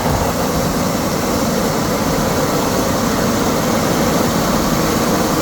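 Steady, loud engine drone mixed with rushing wind noise from a moving vehicle, unbroken throughout.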